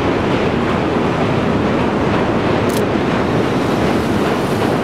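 Trolley train rolling across a steel truss bridge: a steady rumbling wash of noise, with one sharp click a little under three seconds in.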